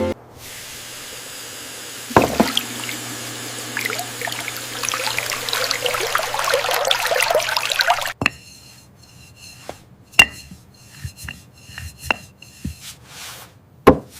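Water running from a tap into a sink for about six seconds, then cut off abruptly, followed by scattered light clinks and taps of washing-up.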